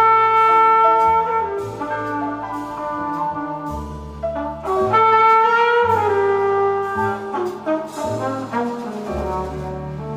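Flugelhorn playing a jazz ballad melody in long held notes, over a double bass line and piano accompaniment.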